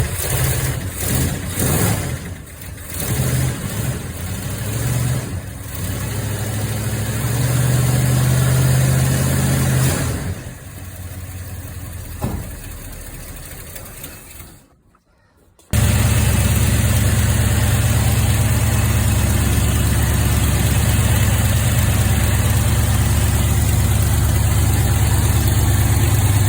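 Cold start of a 1971 Ford F250's 360 V8 after sitting for weeks, the accelerator pumped seven or eight times: the engine fires and runs unevenly at first, then runs steadily. After a short silent break about fifteen seconds in, it idles at a steady level.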